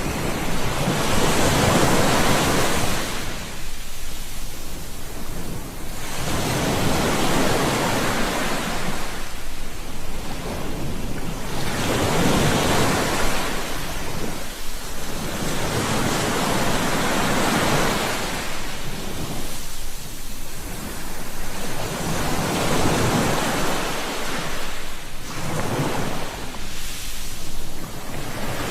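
Ocean waves surging and washing on the shore, a steady rush of surf that swells and falls back every three to four seconds.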